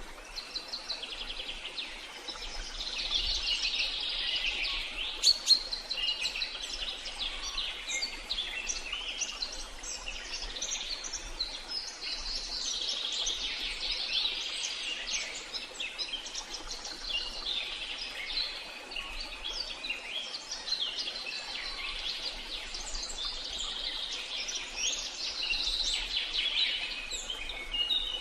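Several birds chirping and trilling continuously in a dense chorus, over a faint steady background hiss.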